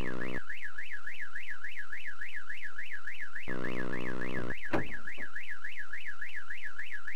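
Electronic alarm warbling up and down about four times a second. A low, buzzing horn-like blast about a second long sounds at the very start and again about halfway through, and a brief falling sweep follows it.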